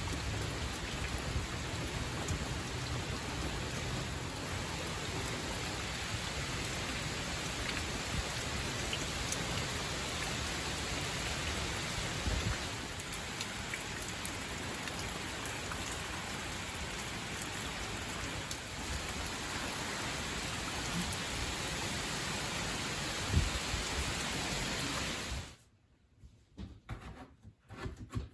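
Steady hiss of heavy rain and wind from tropical storm Ian, with occasional low thumps of gusts. About 25 seconds in it cuts off suddenly, giving way to a quiet room with a few light knocks.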